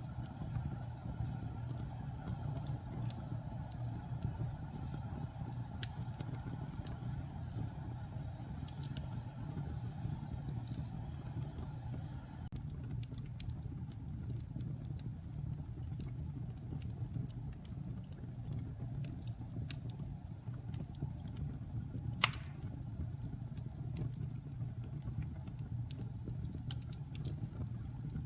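Wood fire crackling in a fireplace: a steady low rumble of flames with scattered small snaps, and one loud pop about three-quarters of the way through.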